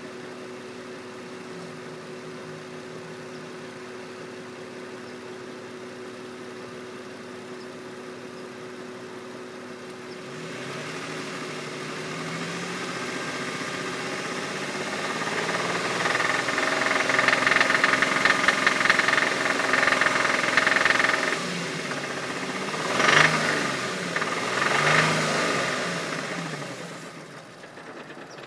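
2004 Infiniti G35 coupe's 3.5-litre V6 idling, then revved up and held high for several seconds with a rapid ticking texture in the sound, followed by two short blips of the throttle before it settles back to idle. Somewhere in it is an unexplained noise that the owner cannot place.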